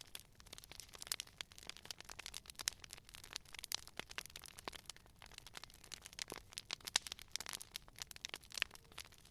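Wood fire crackling: a dense run of small irregular pops and snaps, with a few sharper cracks standing out, over a soft hiss.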